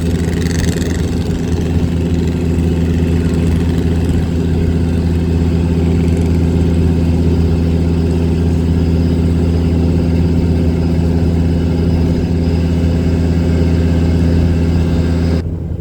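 Boat engine running steadily at an even speed, heard from on board as a loud, constant low hum. Near the end the sound drops off abruptly.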